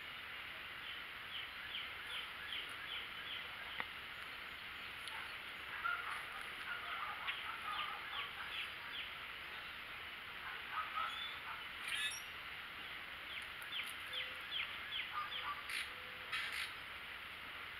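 Songbirds calling in the trees: several runs of short, quick downward notes, about four a second, with scattered chirps between them, over a steady outdoor hiss.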